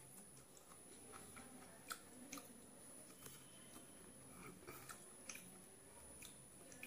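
A person chewing a mouthful of vegetable fried rice: faint, with a few soft clicks scattered through.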